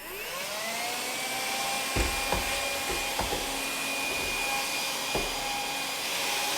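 AEG CX7 cordless stick vacuum cleaner switching on, its motor whine rising in pitch over the first second and then running steadily with the rush of suction. A few knocks come as the brush attachment bumps against surfaces.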